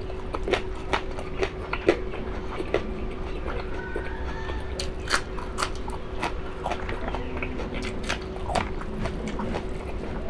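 Close-up mouth sounds of someone chewing and biting cooked beef innards, with short wet clicks and smacks at irregular intervals over a steady low hum.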